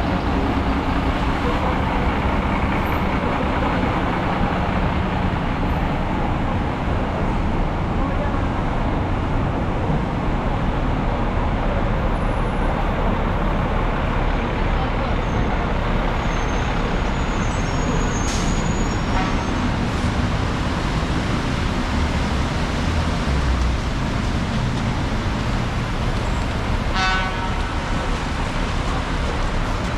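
Busy city street traffic on rain-wet roads: a steady wash of engines and tyre hiss, with a brief pitched sound near the end.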